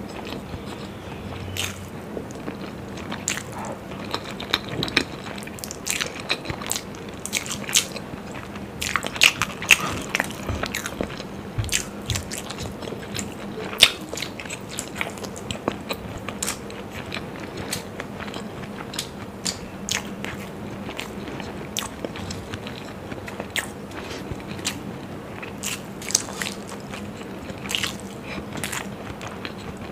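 Close-miked eating sounds of hard-boiled eggs fried in masala being bitten and chewed, with many short, wet mouth clicks at irregular intervals.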